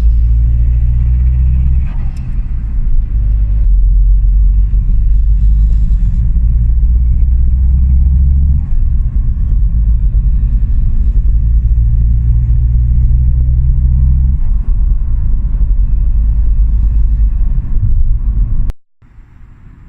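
Exhaust of a straight-piped Vauxhall Vectra 1.9 CDTi 150 turbodiesel, tuned to stage 1+, running with a loud, deep drone. Its pitch steps down and back up a few times as engine speed changes. The sound cuts off abruptly near the end.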